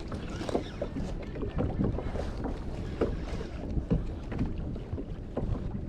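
Water slapping and knocking against a kayak's hull, with wind on the microphone. Short irregular knocks and splashes come every fraction of a second.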